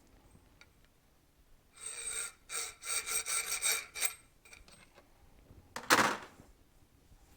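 Metal fork parts scraping against each other during motorcycle front fork disassembly. A quick run of rasping strokes with a metallic ring lasts about two seconds, and one louder, short scrape follows about six seconds in.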